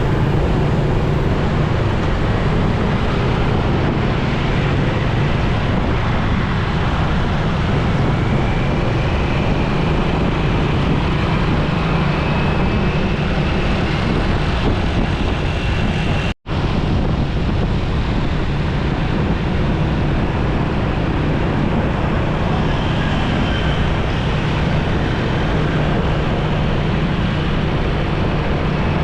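Steady rushing road and wind noise from a motorcycle riding in traffic, with the engine's low hum underneath. The sound cuts out for a split second about halfway through.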